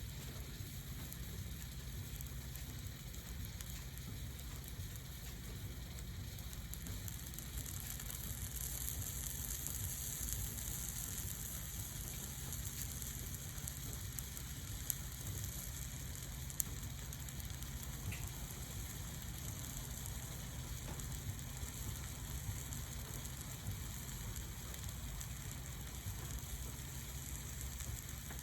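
Wood fire burning on a stainless-steel mesh fire stand: a steady hiss with two sharp pops about halfway through.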